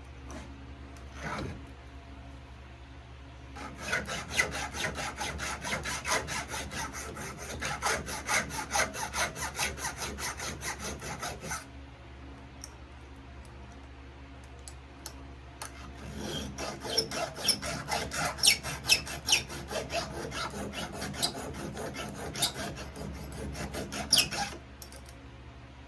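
Flat file rasping back and forth across the rakers (depth gauges) of a chainsaw chain, a few strokes a second, in two runs with a pause of several seconds between them. This is the rakers being filed down as part of chain sharpening.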